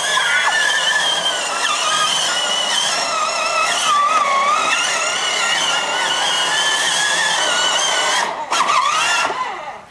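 Electric motors and gearbox of a Scania ride-on toy truck whining as it drives, the pitch wavering with speed and load, then cutting off about eight seconds in.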